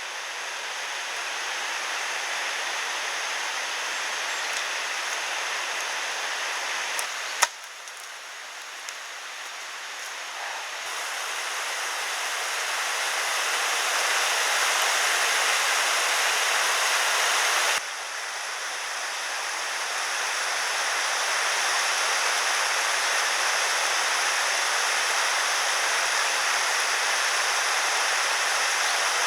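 Steady rushing noise of flowing water. The noise drops abruptly twice, with a sharp click at the first drop about seven seconds in and again about eighteen seconds in, and builds back up each time.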